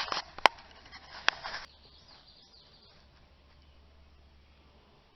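Two sharp metallic clicks over a brief rustle as a steel jack stand is set under the rear shock mount of an SUV. After that, only faint outdoor background.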